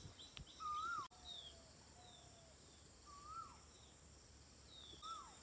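Faint bird calls: a few whistled notes that rise and then drop, about two seconds apart, with shorter lower falling notes and high thin chirps between them. A steady high-pitched hiss runs beneath.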